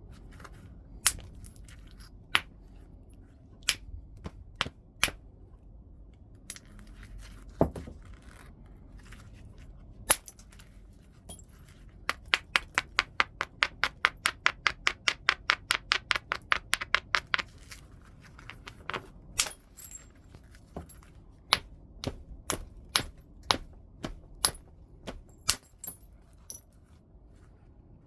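Knapping tool striking and clicking against heat-treated Burlington chert, with sharp separate knocks every second or so and a fast run of light clicks, about eight a second, lasting several seconds in the middle.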